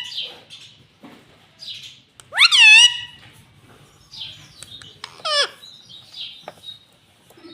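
Pet ring-necked parakeet calling: one loud, shrill call about two and a half seconds in, a shorter falling call a few seconds later, and softer chirps between.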